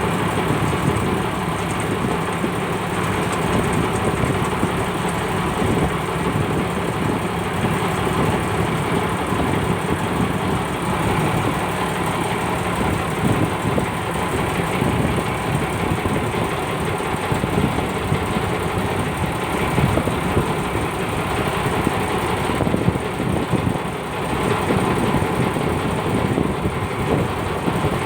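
Fishing boat engine running steadily, a constant engine drone with no change in speed.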